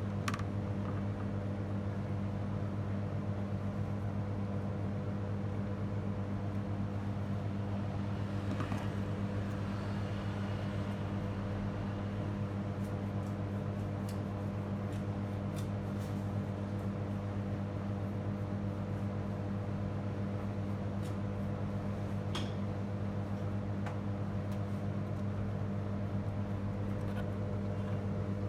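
Steady low electrical hum with a light fan-like hiss, broken by a few faint clicks.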